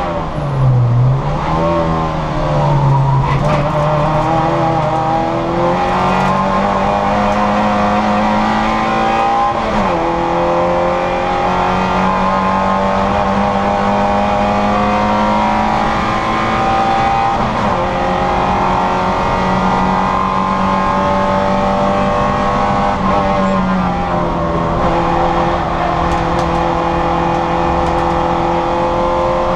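Citroën Saxo VTR's four-cylinder engine racing flat out, heard from inside the car. The revs dip sharply about a second in, then climb and hold high, falling suddenly at gear changes about ten seconds in and again near the end.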